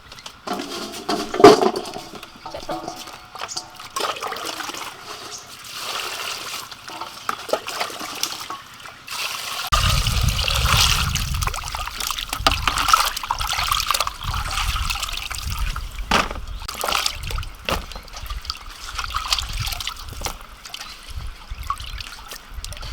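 Water running and splashing, with scattered clicks and knocks of handling. A heavier low rushing joins about ten seconds in.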